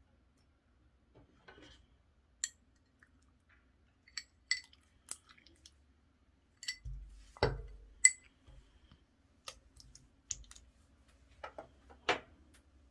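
Clear slime being pressed and stretched by hand, giving scattered sharp clicks and pops, with a few longer sticky squelches.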